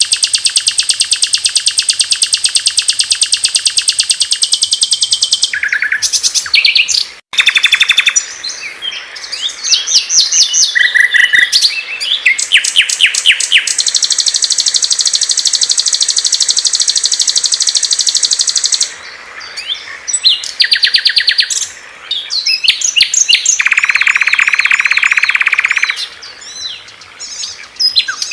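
Recorded songs of several small songbirds, played one after another: loud, rapid, high trills and chirps. The song switches abruptly from one bird to another, with a brief drop-out about seven seconds in.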